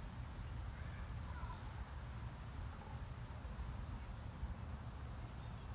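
Outdoor background: a steady low rumble, like wind on the microphone, with a few faint high chirping calls.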